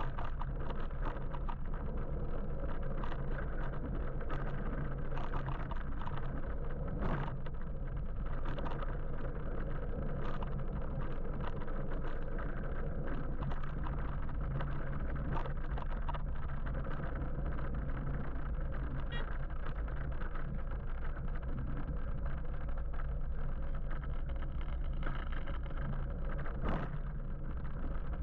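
Steady road and traffic noise from riding an electric motorbike: a constant low rumble with a noisy hiss above it and a few faint ticks.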